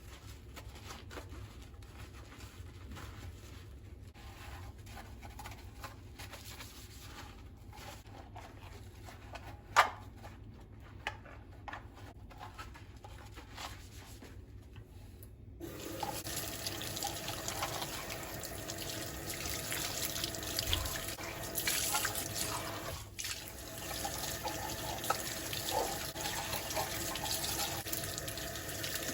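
Faint handling noises with a sharp click about ten seconds in; then, a little past halfway, a tap is turned on and water runs steadily into a sink.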